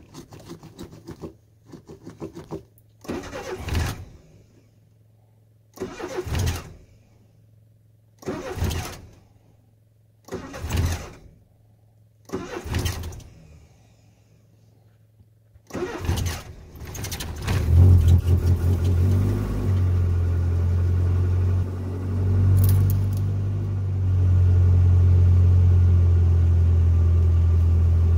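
A car engine on a cold start, cranked by the starter in about six short bursts roughly two seconds apart without catching. About halfway through, one longer crank makes it fire, and it settles into a loud, steady fast idle with one brief rise in revs.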